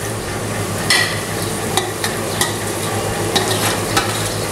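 Potato, onion and tomato masala sizzling in a non-stick frying pan on a gas flame, with a few short clicks and scrapes of utensils against the pan as the soaked flattened rice (poha) is added.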